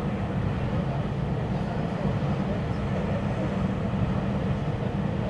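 Local train running at speed, heard from inside the carriage: a steady low rumble of wheels on rails with no change.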